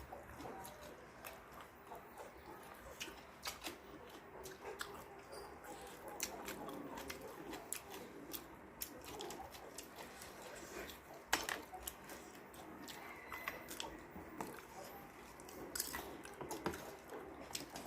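Close-up chewing and smacking of a mouthful of food, with many small wet clicks and crunches. One sharper knock comes about eleven seconds in.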